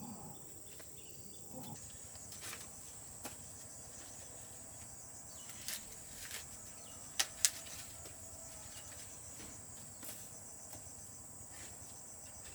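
Steady high-pitched insect chirring, crickets or similar, running without a break, with a few sharp clicks scattered through it, the two loudest close together about seven seconds in.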